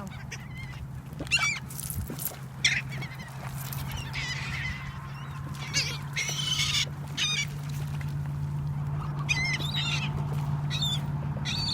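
Seagulls calling over and over, short high cries coming at irregular moments, some in quick runs, over a steady low hum.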